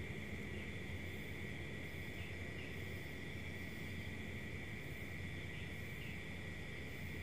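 Crickets trilling in one steady, unbroken high note over a low background hum.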